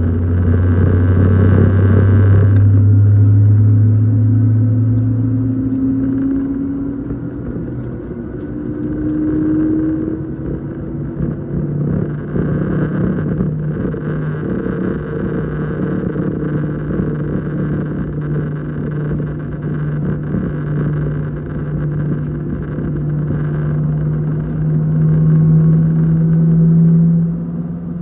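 Boeing 737-700 cabin noise on the ground before takeoff: the CFM56 jet engines' steady drone under low tones that shift in pitch. A deep hum stops about six seconds in, and a higher tone rises slowly and is loudest near the end.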